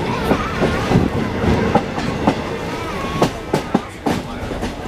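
Railroad passenger car rolling along the track: irregular clicks and knocks of the wheels over rail joints, with the car rattling.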